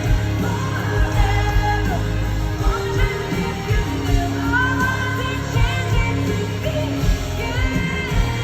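Live pop concert music through a stadium sound system: a sung melody over a steady bass line and a regular drum beat.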